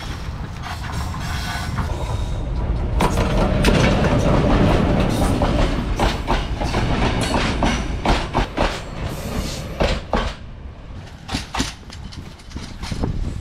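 Train passing at very close range. The locomotive goes by with a loud rumble about three seconds in, then the passenger carriages follow with a run of rhythmic steel wheel clacks over the rail joints.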